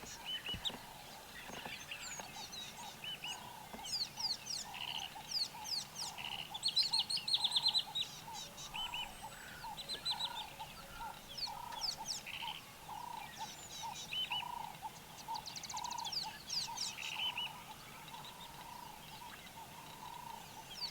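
Several wild birds calling in the bush: quick chirps, fast trills and rattling calls, with louder trills a third of the way in, over a low note repeated steadily a little under twice a second.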